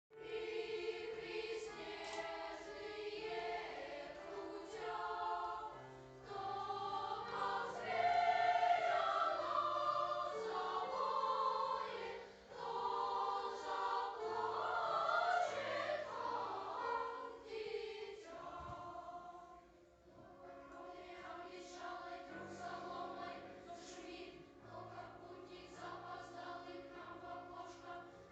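A choir singing. It swells louder in the middle and turns softer for the last third.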